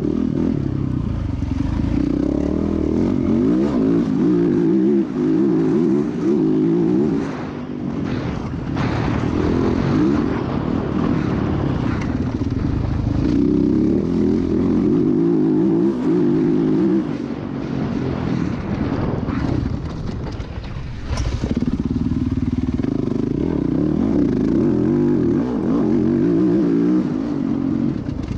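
Motocross dirt bike engine running hard, revving up and down as the rider opens and closes the throttle, heard close up from a camera on the bike or rider. It eases off twice, about a third of the way in and again past the middle, before pulling hard again.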